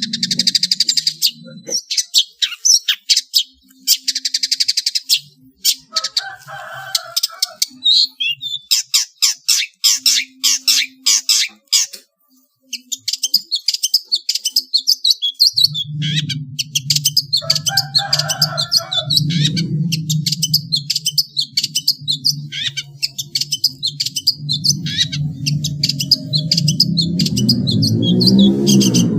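Small songbirds chirping and twittering in rapid, sharp calls, with short pauses between phrases. In the second half a low droning tone runs underneath and grows louder near the end.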